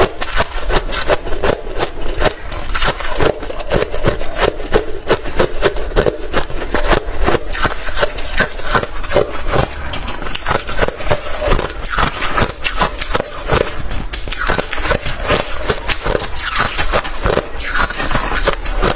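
Hard, refrozen crushed ice being bitten and chewed close to the microphone: continuous, dense crunching and cracking with no pause.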